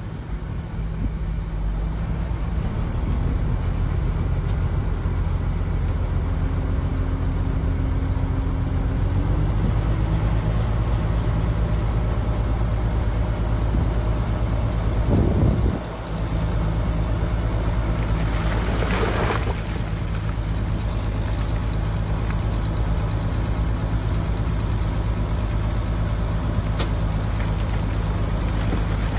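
Heavy diesel earthmoving machinery running steadily with a low engine drone. There is a short hiss about two-thirds of the way through.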